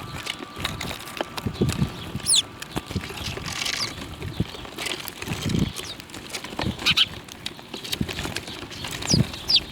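Birds at a feeding spot: a few short, high chirps that sweep downward, among scattered light taps and soft low thumps.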